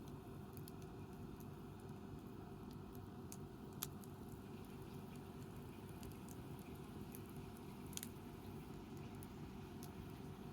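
Wood campfire burning: sparse small crackles over a low steady rumble, with two sharper pops about four and eight seconds in.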